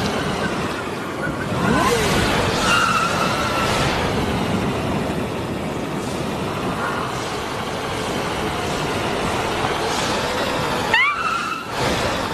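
Cartoon vehicle sound effects: a steady driving noise of engine and road, with a short rising squeal about eleven seconds in.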